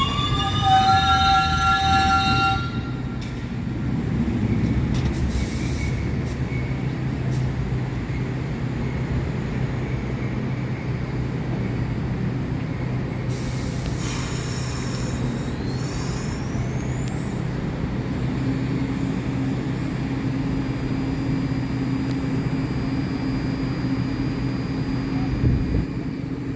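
New York City Subway train on the 1 line: steel wheels squealing on the rails for the first couple of seconds, then a steady low rumble and hum of the train running, with a thin rising whine about halfway through.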